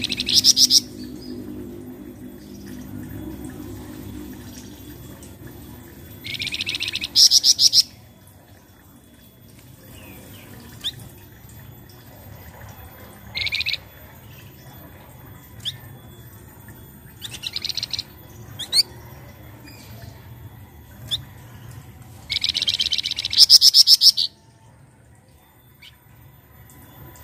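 Flamboyan songbird calling: five loud, rapid rattling trills spaced several seconds apart, the last and longest near the end, with short thin upward whistles in between.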